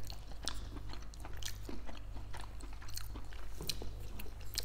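Close-miked chewing: the irregular wet clicks and smacks of people eating, over a steady low hum.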